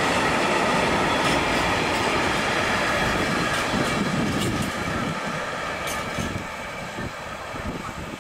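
Freight train of tank wagons rolling past, wheels clacking over rail joints with a thin steady squeal. It gets quieter from about five seconds in as the end of the train draws away.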